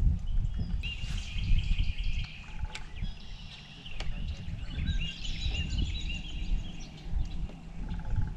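Several wild birds singing and calling, with overlapping chirps and short trills, over a low, uneven rumble. A few faint clicks are also heard.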